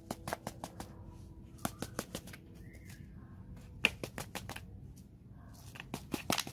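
Handling noise: a run of irregular sharp clicks and crackles in clusters, the sharpest about four seconds in.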